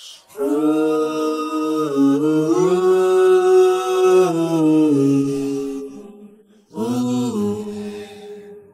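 Background music of a slow, wordless chant-like vocal: long held notes in two phrases, the second starting about seven seconds in.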